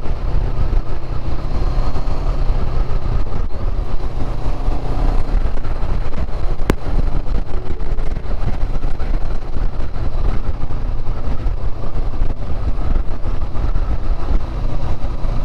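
Motorcycle engine running steadily while riding, with heavy rumble and wind and road noise; a single sharp click a little before halfway.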